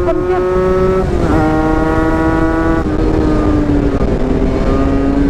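Yamaha RX-King two-stroke single-cylinder motorcycle engine held at high revs under full throttle, the exhaust note steady with a brief dip in pitch about a second in and a lower, steady note from about four seconds in.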